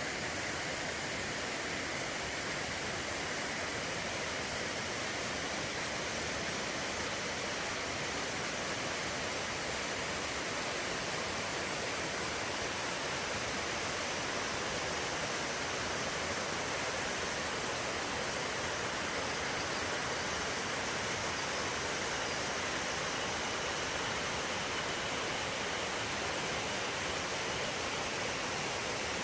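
Fudō no Taki waterfall, water falling and rushing as one steady, unbroken hiss.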